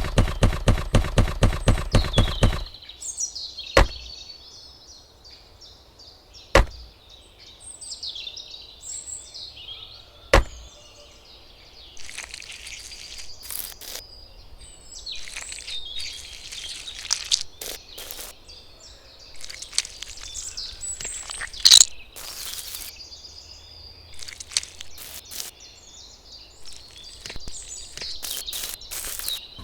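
Birds chirping, with a fast rattle of sharp taps at the start, a few single sharp clicks, and later many short scraping or tapping noises.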